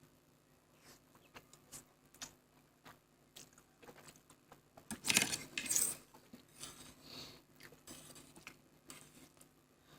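Close-up eating of Maggi instant noodles: scattered small clicks and soft chewing, with a louder noisy burst lasting about a second, about five seconds in.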